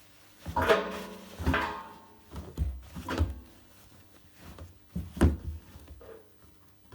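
A series of about six clunks and knocks with short ringing tails, as parts of a Privileg 804 washing machine are handled, like a drawer or door being opened and shut.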